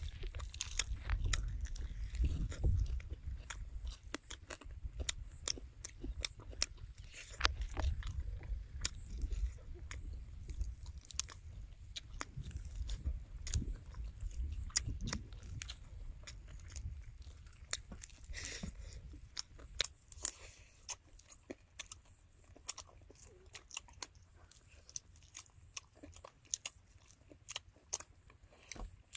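Chewing and crunching of crispy deep-fried whole quail, with sharp irregular crackles as the meat and small bones are bitten and torn apart by hand, over a low rumble.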